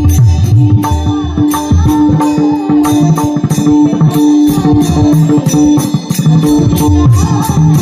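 Instrumental break in Marathi devotional music: a hand drum plays a steady rhythm with bright, regular cymbal strokes over a held, steady keyboard-like tone.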